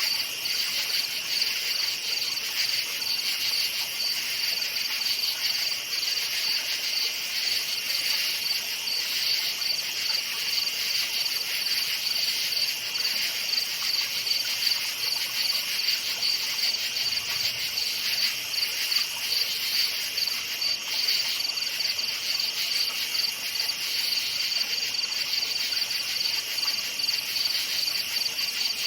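Crickets chirping at night, a dense chorus of steady, rapid trills that do not let up.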